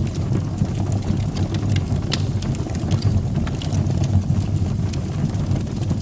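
Fire burning in a fireplace: a steady low rumble of flames with sharp crackles and pops scattered irregularly throughout.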